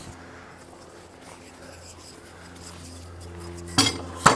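A steady low hum throughout, with two sharp knocks about half a second apart near the end.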